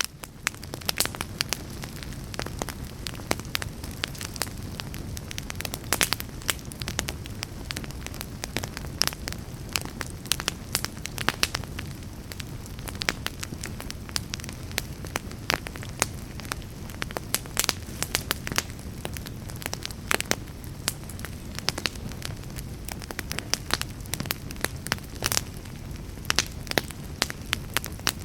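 Wood fire burning in a fireplace, crackling steadily with frequent sharp pops and snaps over a low, even hiss of the flames.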